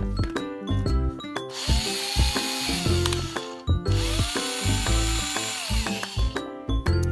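Cordless power tool motor triggered twice: each time it spins up with a rising whine, runs steadily for about two seconds, then winds down. The tool is being test-run to check that it works. Background music with a steady beat plays throughout.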